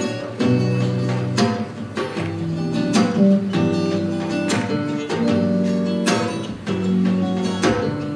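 Acoustic guitar played live, strumming chords that ring on between strokes, a strong stroke about every second and a half, as an instrumental passage of a song.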